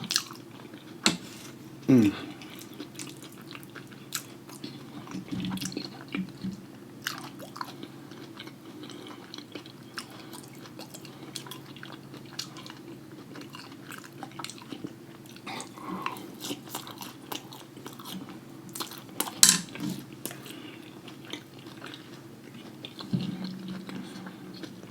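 A person eating a seafood boil close to the microphone: wet biting and chewing with scattered small crunches and clicks, and one louder snap about three-quarters of the way through, over a steady low hum.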